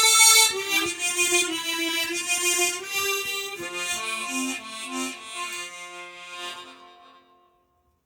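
Harmonica playing a slow melody in sustained notes with chords underneath, fading away to silence about seven seconds in.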